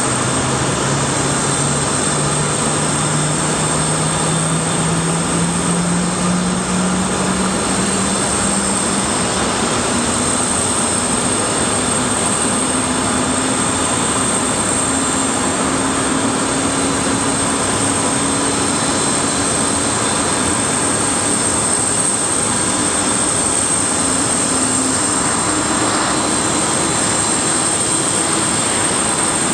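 Antonov An-124-100's four Lotarev D-18T turbofan engines running: loud, steady jet noise with a high whine, and a low tone that climbs slowly in pitch.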